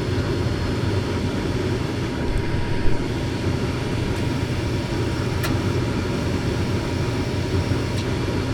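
Gas furnace fan running steadily with its gas supply shut off, so the burners are out while the fan keeps going; a couple of faint clicks are heard, one about three seconds in.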